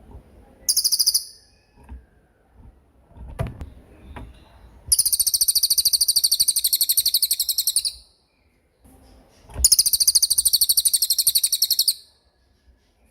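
A small songbird's high, very fast buzzing trills, given three times: a short burst about a second in, then two long ones of about three seconds each, with a faint knock between them.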